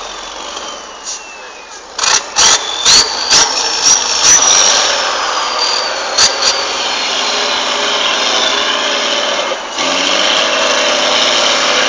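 Truck engine running under load, its whine rising and then slowly falling, with a run of about eight sharp bangs about two seconds in, then running steadily.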